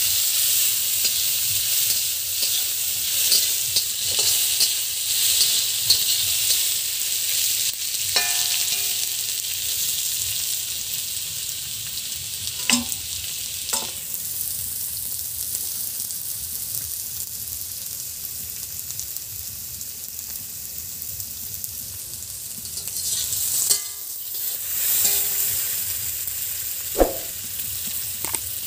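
Sliced snake gourd rings sizzling in hot mustard oil in an iron wok, stirred with a spatula that scrapes and clinks against the pan. The sizzle is strongest in the first several seconds, eases through the middle and picks up again near the end, with a few sharp clinks.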